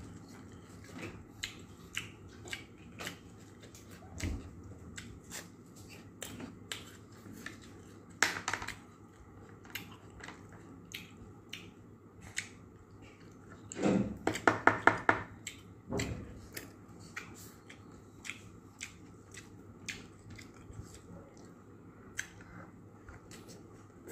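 Close-up mouth sounds of a person eating steamed clams and raw vegetables with the hands: chewing with many small wet clicks and smacks. There is a louder crunch about a third of the way in, and a short run of quick, louder mouth sounds a little past the middle.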